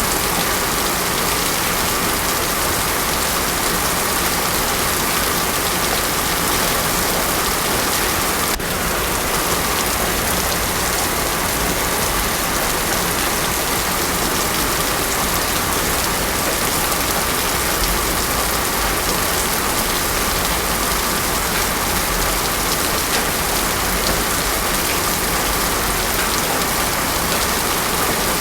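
Heavy rain falling steadily on a paved road, with no thunder. One brief click about a third of the way in.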